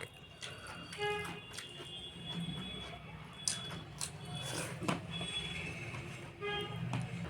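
Eating sounds: chewing and mouth noises, with several sharp little clicks scattered through, over a steady low room rumble. Short pitched tones sound about a second in and again near the end.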